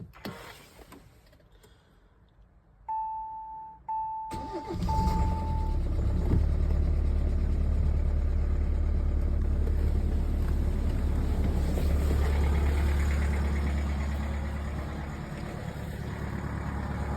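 Three short, evenly pitched electronic beeps, then the Hyundai i40's 1.7 CRDi four-cylinder diesel cranks briefly and catches about four seconds in. It is a cold start at −11 °C, and the engine settles into a steady cold idle that grows somewhat quieter in the last few seconds.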